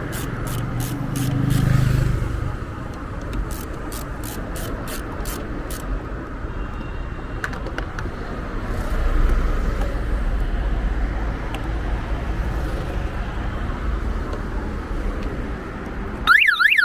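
A ratchet wrench clicks at an even two to three clicks a second, in two runs over the first few seconds, against the steady rumble of passing traffic. Near the end the Kia Cerato's car alarm starts a loud warbling siren; an alarm that goes off like this is typical of the battery having just been reconnected.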